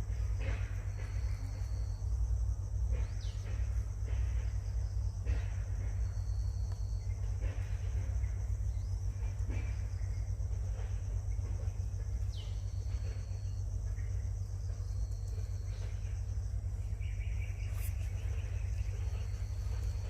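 Steady high insect buzz, with short high notes every few seconds and a few brief falling chirps, over a low rumble.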